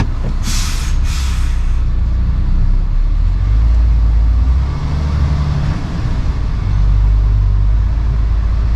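Lorry's air brakes letting out two short hisses of compressed air, one right after the other, about half a second in, over the low, steady rumble of the lorry's engine.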